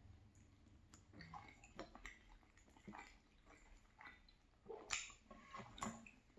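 Faint chewing of soft creamy pasta, with a few soft clicks and mouth smacks scattered through; the loudest about five seconds in.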